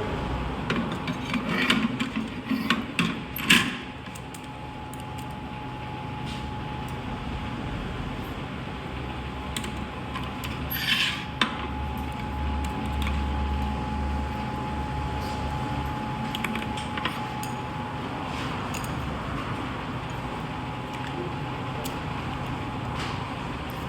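Workshop handling of a torque converter and tools during teardown: scattered clicks and knocks of metal parts in the first few seconds and a short scrape about ten seconds in, over a steady machine hum.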